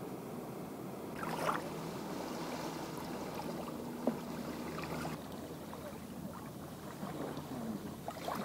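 Steady wind-and-water noise on a phone's headset microphone, with a brief rustle about a second in and a single sharp click about four seconds in.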